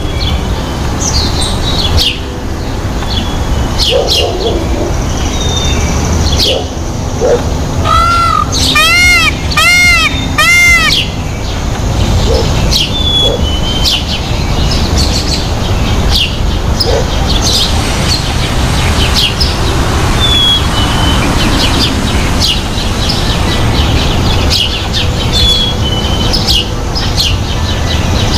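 Birds chirping and calling, with short chirps scattered throughout. About eight seconds in comes a run of four loud, rising-and-falling calls.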